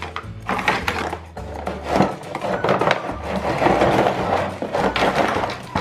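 Plastic toy pieces and packaging rustle and clatter as they are handled. Background music with a bass line plays underneath.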